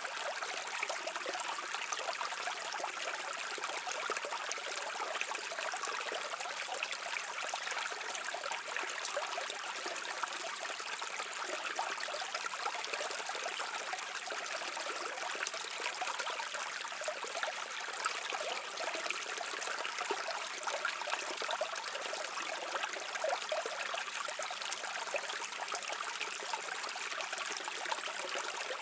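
Small stream flowing, a steady, continuous trickle of water.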